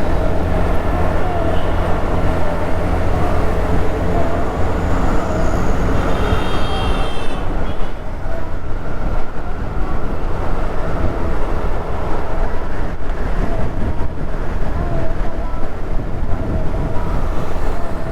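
Steady rumble of wind and road noise from a Honda Activa scooter riding through city traffic, its engine running underneath. A short high-pitched sound cuts in about six seconds in.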